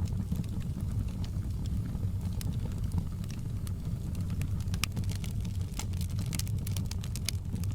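Wood fire crackling: scattered sharp pops and snaps over a steady low rumble of the flames, the pops coming thicker near the end.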